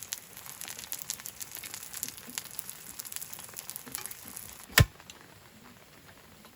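Kimchi pancake batter frying in oil in a pan, with steady crackling and sizzling. About three-quarters of the way through there is a single sharp knock, the loudest sound, after which the crackling dies down.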